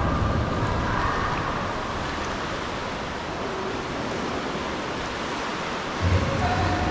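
Steady rushing of sea water around a sea kayak, mixed with wind on the microphone.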